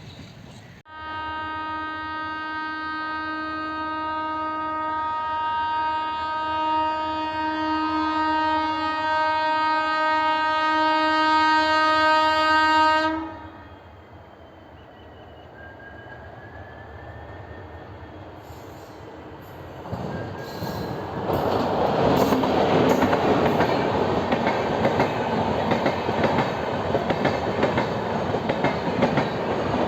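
Train horn sounding one long, steady blast of about twelve seconds that grows louder and then cuts off. After a quieter stretch, loud train running noise with clattering wheels comes in about twenty seconds in.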